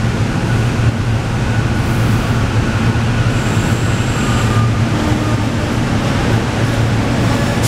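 SEPTA Regional Rail electric train pulling into an underground station platform: a steady low rumble, with a faint high whine for about a second around the middle.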